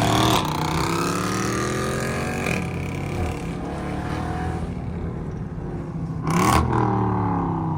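Jeep Grand Cherokee Trackhawk's supercharged 6.2-litre V8 under hard driving, its revs falling and rising through the gears, with a loud burst of engine noise about six and a half seconds in.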